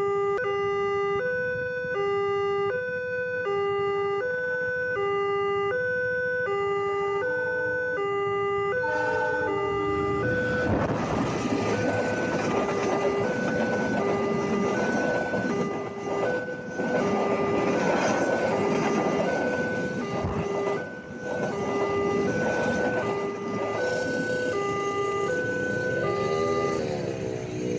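Railway level-crossing warning alarm sounding its two-tone signal, a low and a high tone alternating about once every one and a half seconds. About ten seconds in, a loud rumbling rush of a passing train comes over it, and the alarm keeps sounding underneath.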